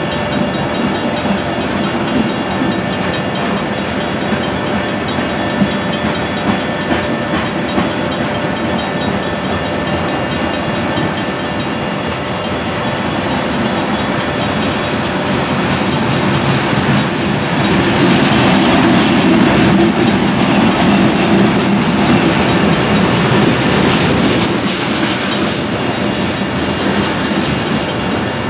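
Covered hopper cars of a freight train rolling through a grade crossing, their wheels clicking over the rail joints, while the crossing's Safetran electronic bell and Griswold mechanical bell ring steadily. The rolling gets louder from about seventeen seconds in and eases off again near the end.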